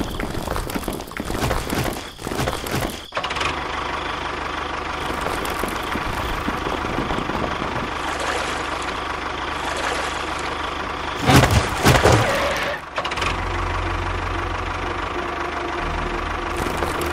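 Tractor engine idling with a steady knocking beat. A louder burst of noise cuts in for a couple of seconds a little after the middle.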